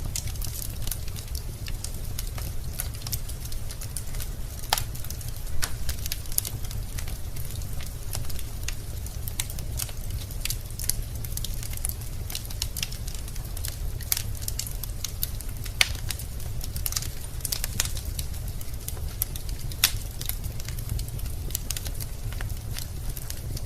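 Wood fire burning in a fireplace: a steady low rumble of flame with irregular sharp crackles and pops from the burning logs, a few louder pops scattered through.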